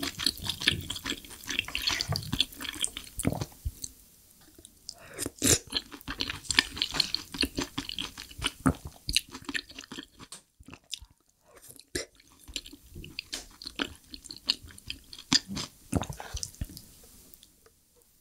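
Close-miked wet chewing, mouth smacks and swallowing of soft tofu in a saucy mapo tofu, in irregular clicks that die away near the end.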